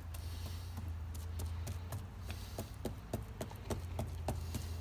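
Rhythmic light dabbing taps, about three to four a second, as wet epoxy is worked into fiberglass cloth by hand, over a steady low hum.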